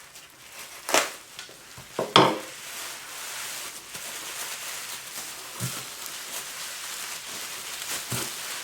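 Gift packaging being unwrapped by hand: two sharp knocks about one and two seconds in, then steady rustling and crinkling of the wrapping.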